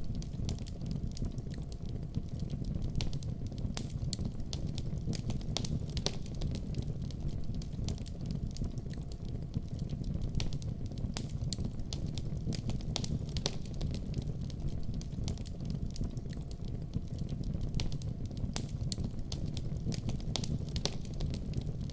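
Wood fire burning in a fireplace, crackling with frequent irregular sharp pops and snaps over a steady low rumble of the flames.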